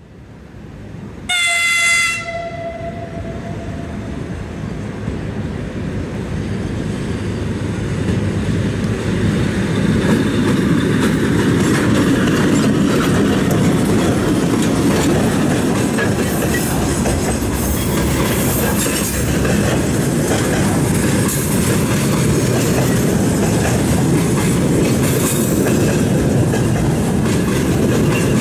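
VL11 electric locomotive sounding one short horn blast about a second in, then its freight train of flatcars loaded with large steel pipes passing close by. The rumble of the wheels on the rails grows louder over the first several seconds and then holds steady, with the clickety-clack of wheels over rail joints.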